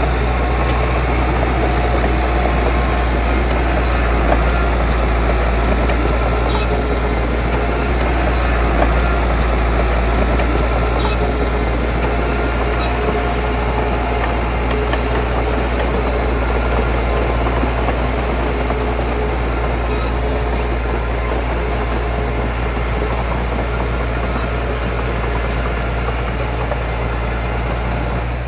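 Heavy diesel engine running steadily with a deep low rumble and a few faint ticks now and then.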